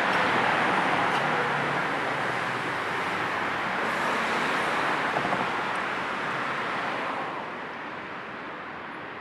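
Steady road and tyre noise of a moving car, heard as an even hiss. It grows quieter and duller about seven seconds in.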